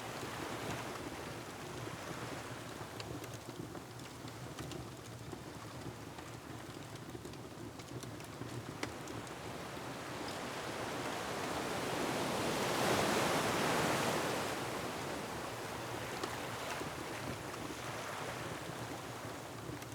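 Ocean waves washing against a rocky shore, one surge swelling to its loudest about two-thirds of the way through and then falling back, with sparse crackles of a wood fire.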